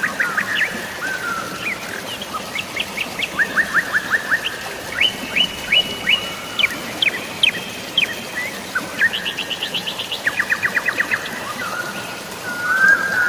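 Several birds chirping in rapid trills of short, sharp notes, one burst after another, over a faint steady hiss of drizzling rain and flowing water.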